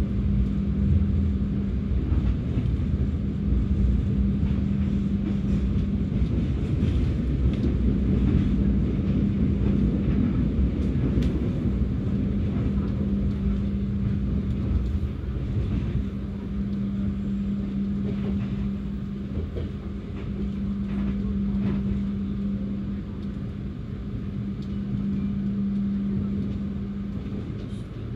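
Passenger train running along the track: a steady low rumble with a constant hum.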